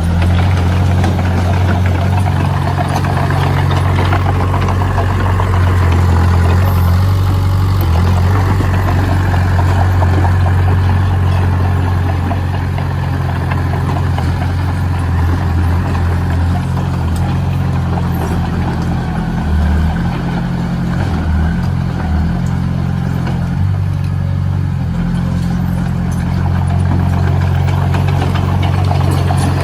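Heavy construction machine's engine running steadily with a deep, even hum.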